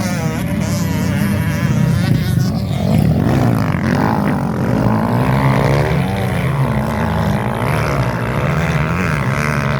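Several motocross motorcycle engines revving, their pitch repeatedly rising and falling as the riders work the throttle.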